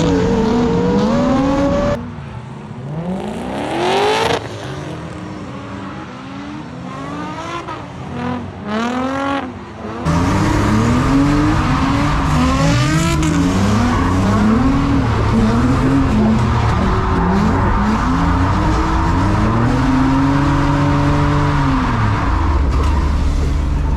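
Drift car engine revving up and down again and again as it slides through a tandem drift, with some tyre squeal. The engine drops quieter about two seconds in and comes back loud about ten seconds in.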